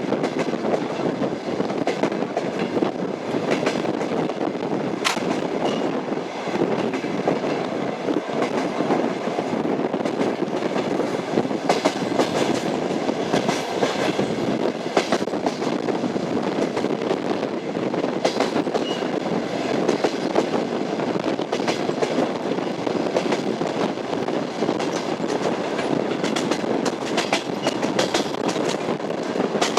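Moving train's wheels clacking over rail joints, over a steady rolling rumble.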